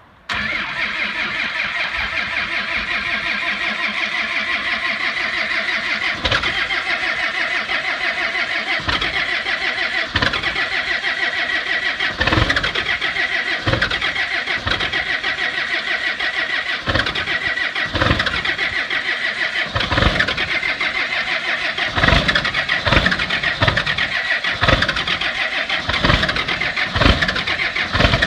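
Cummins 12-valve 5.9 L inline-six diesel in a 1995 Dodge 2500 starting from cold and running, catching suddenly at the start and settling into a steady clattering run. Sharp uneven thumps punctuate it, coming more often in the second half.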